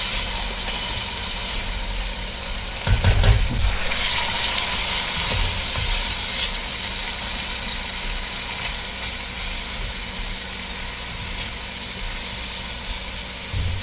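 Chopped onion, garlic and parsley flakes sautéing in olive oil in a stainless steel stockpot: a steady high sizzle while a wooden spoon stirs them. A few low knocks about three seconds in.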